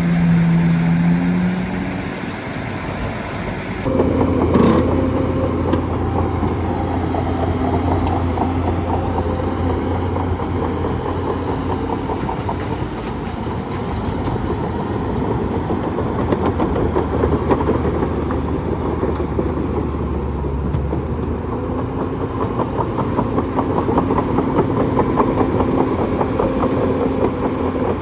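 Bulldozer's diesel engine running steadily, stepping up to a heavier, louder note about four seconds in, with a single sharp knock just after.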